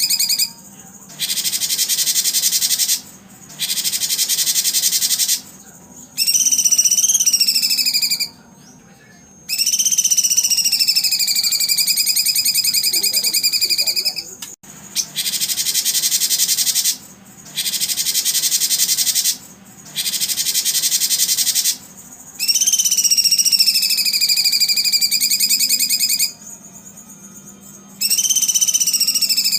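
Recorded songbird calls in repeated phrases of about two seconds each, with abrupt starts and stops: clear whistled notes that slide up and down alternate with dense buzzy high-pitched trills, separated by short pauses. A faint steady hum runs underneath.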